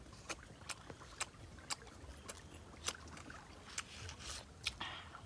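Crisp crunching of raw young green jackfruit being chewed: a string of sharp clicks and crunches at uneven spacing, roughly two a second.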